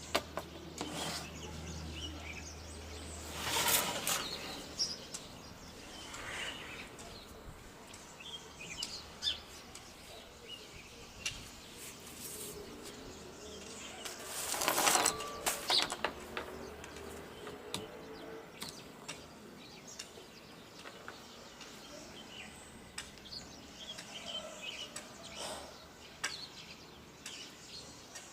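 Small birds chirping in scattered short calls, with two brief louder rushing noises, one about four seconds in and one about halfway through.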